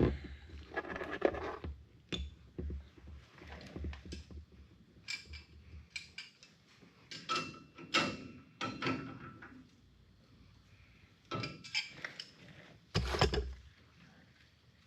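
Metal hand tools and small hub parts clinking and tapping in scattered bursts as a front wheel hub is taken apart, with busier clusters about halfway through and near the end.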